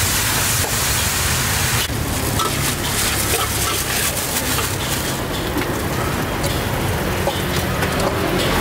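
Stir-fry sizzling in a steel wok as a ladle stirs it over a burner. About two seconds in the sizzle thins to a steady burner rumble, with crinkling crackles of a plastic bag being opened in the second half.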